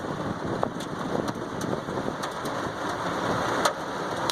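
Heavy rain drumming on a car roof, heard from inside the car, with scattered sharp ticks of hail striking it.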